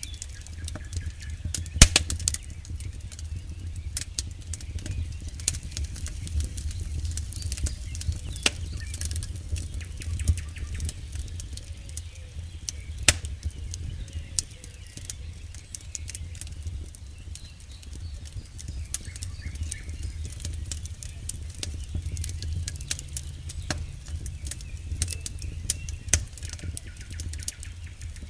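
Wood campfire burning, with irregular sharp crackles and pops from the burning logs over a steady low rumble of the flames. A few louder pops stand out, one about two seconds in.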